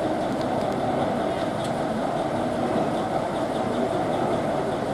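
A train running with a steady, even, continuous noise.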